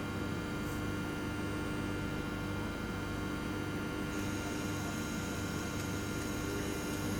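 Steady hum from a train, made of several fixed tones held without change.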